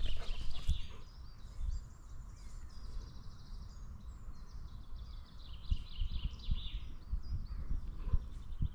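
Woodland songbirds chirping and trilling, with low, uneven thuds from the Labrador's steps jolting its harness-mounted camera. The thuds come thicker in the second half.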